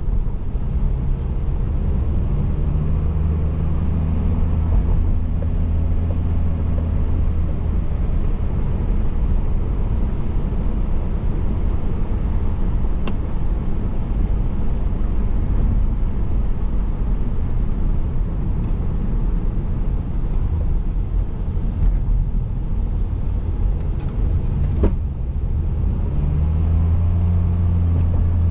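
Car driving on the road, heard from inside: steady tyre and road noise under a low engine hum that fades in the middle and comes back strongly near the end, with a couple of faint clicks.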